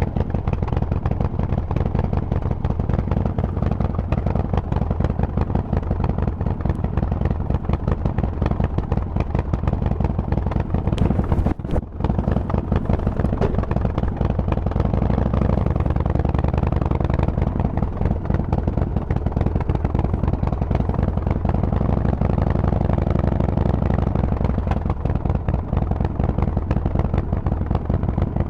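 Harley-Davidson Forty-Eight's air-cooled 1200 cc V-twin running steadily through a Vance & Hines aftermarket exhaust, with a brief drop in sound about twelve seconds in.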